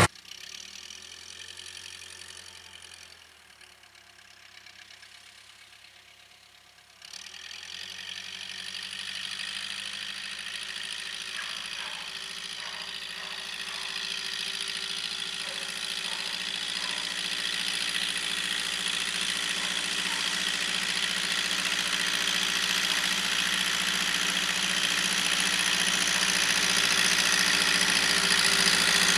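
Case 580K loader backhoe's diesel engine running, faint at first, then jumping up in level about seven seconds in and growing steadily louder.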